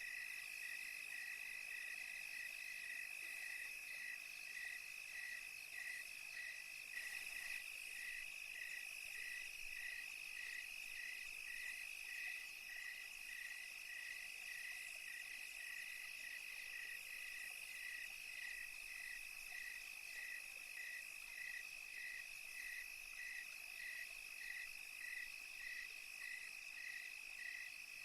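Night chorus of crickets: one steady high trill with a regular chirp repeating a little under twice a second, over a fainter high insect hiss.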